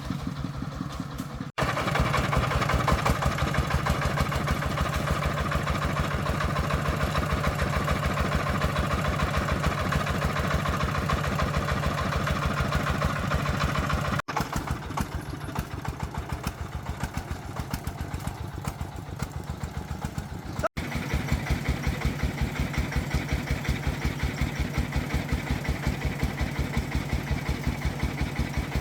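Agricultural logging truck's single-cylinder diesel engine running steadily with a fast, even chugging beat, broken off abruptly by three brief gaps.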